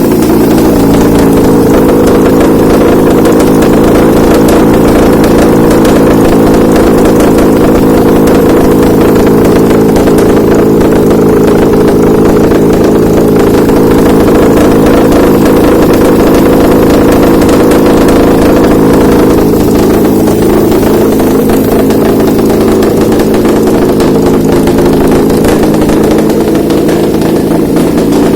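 Honda K24W 2.4-litre inline-four engine running steadily on a test stand. It gets slightly quieter about two-thirds of the way through.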